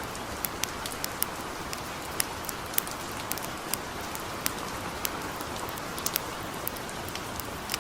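Light rain falling in a steady hiss, mixed with a wood campfire crackling: sharp, irregular pops, a few a second.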